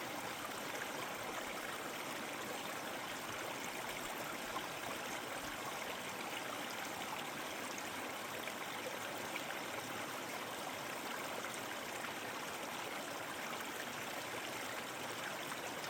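Stream water running steadily, an even, unbroken rush of flowing water.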